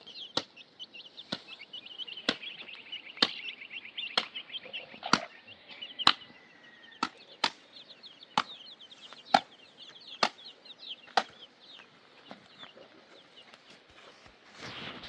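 Steady blows of a hand tool striking, about one a second, which stop about three quarters of the way through. Under them, birds chirp constantly and fast, high-pitched.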